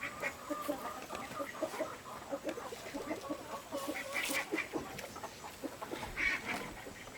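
Farm poultry calling: many short, overlapping calls that go on throughout.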